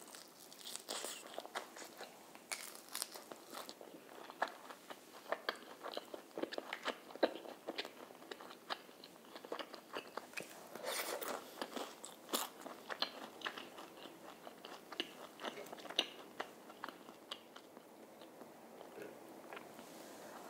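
Close-miked crunching and chewing of crispy fried chicken and french fries: a run of sharp, crackly bites and chews, busiest about halfway through and thinning out near the end.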